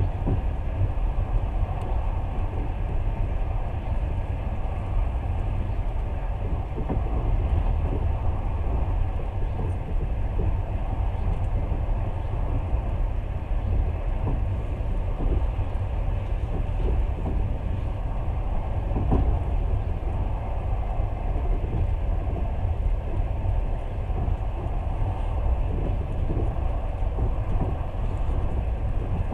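Passenger train running at speed, heard from inside the carriage: a steady low rumble of wheels on rails with scattered short knocks.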